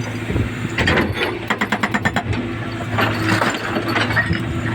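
JCB backhoe's diesel engine running under load while its hydraulic breaker hammers concrete, with scattered knocks and a quick run of about ten blows a second about a second and a half in.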